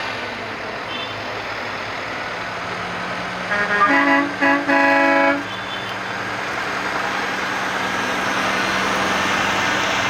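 Truck horn sounding a few quick toots and then a longer blast, over the steady running of a passing truck's engine.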